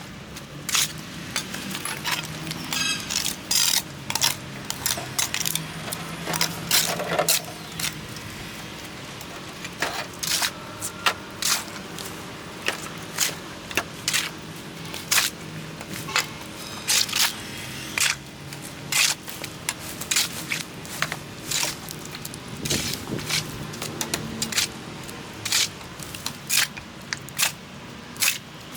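Irregular sharp clicks, knocks and scrapes of cleanup work, often a few a second, over a faint low steady hum.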